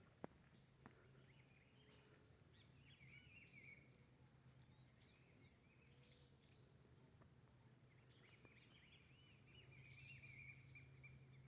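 Birds chirping and warbling in two bouts, around the third second and again near the end, over a steady high insect trill.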